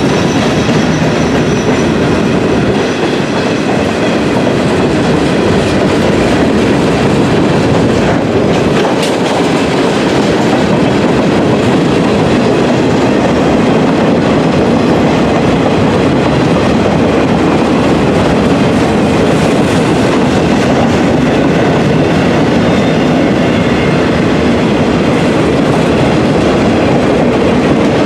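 Freight train passing close by, a long string of cars rolling on the rails with a steady, loud rumble.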